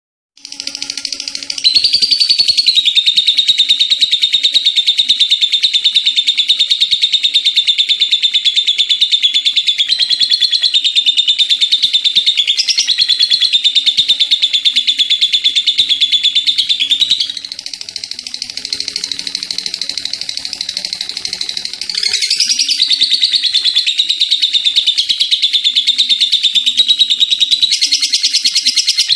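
Lovebird singing a long, unbroken 'ngekek': a very fast, high, rattling chatter. It drops quieter for about five seconds past the middle, then comes back loud.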